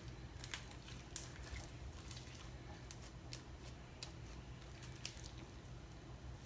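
Homemade glue slime being kneaded by hand: scattered soft sticky clicks and squelches over a faint low hum.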